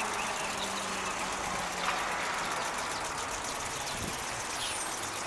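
Steady outdoor background noise, like the hum of distant traffic.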